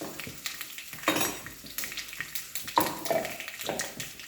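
Spatula stirring and scraping in a kadai, with several louder knocks of metal on metal, over a faint sizzle of spices frying in oil.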